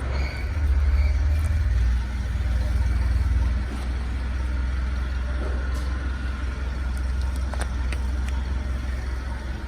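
Engine idling steadily with a low, even hum that eases slightly a few seconds in. It is taken to be the SsangYong D20DT (OM664) 2.0-litre turbodiesel the listing is about, run to show it works.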